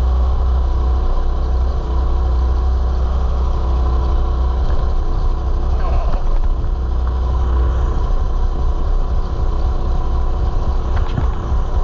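Mini bike engine running steadily while the bike is ridden.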